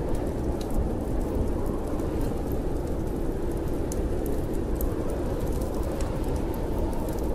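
Snowstorm wind blowing steadily as a low, even rumble, with small sharp crackles from a wood fire in a fireplace scattered throughout.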